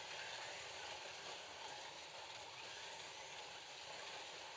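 FLY slot cars lapping the track under power: a steady high hiss of their small electric motors and pickup braids running along the rails.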